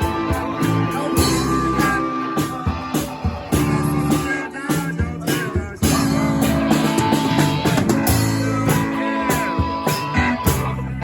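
Rock band playing an instrumental break, with a lead guitar soloing in long held notes over the band.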